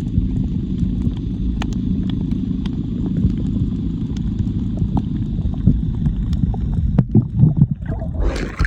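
Outrigger boat (bangka) engine running with a dense, rapid low chugging. It breaks up and fades about seven seconds in.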